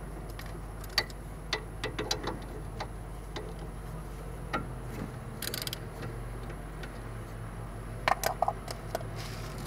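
Scattered metallic clicks and clinks of hand tools and brake parts being worked on a car's front brake caliper and its guide pin. There is a short hissing scrape about five seconds in and a quick cluster of knocks near the end, over a steady low hum.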